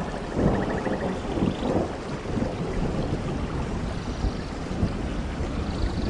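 Steady rain with a low, continuous rumble of thunder. A brief faint trill sounds about half a second in.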